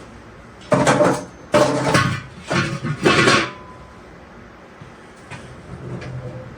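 Supports that the car body was resting on being pulled out and set down: four loud clattering knocks in quick succession, starting about a second in.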